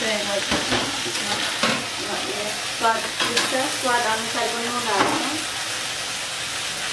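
Chicken pieces and onions frying in oil in an aluminium pressure-cooker pot on a gas burner, sizzling steadily. Short wavering pitched sounds ride over the sizzle during the first five seconds.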